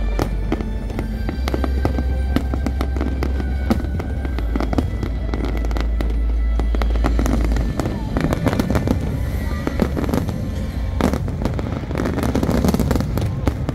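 Fireworks barrage: many aerial shells bursting in quick succession, a dense run of booms and crackles. About eight seconds in, the steady deep rumble under the bursts drops away and the crackling becomes thicker.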